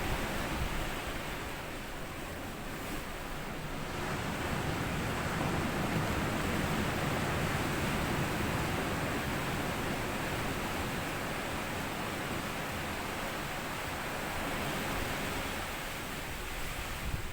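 Sea waves washing onto a sandy beach: a continuous surf wash that eases slightly and then swells again about four seconds in.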